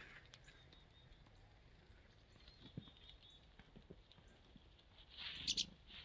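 Near-quiet winter woods, with a few faint high bird chirps about three seconds in and a short rustling noise near the end.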